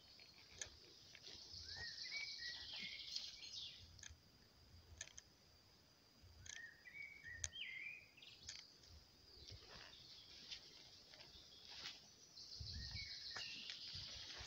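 Faint birdsong: a short rising whistled phrase sung three times, several seconds apart, over a steady high-pitched hiss, with soft footstep thuds and a few clicks.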